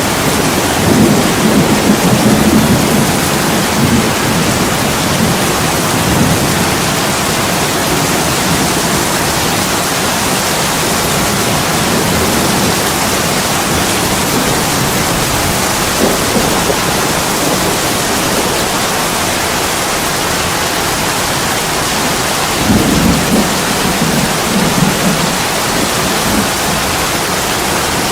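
Heavy rain pouring steadily onto an attic window and roof. Low rumbles swell up in the first few seconds and again about 23 seconds in.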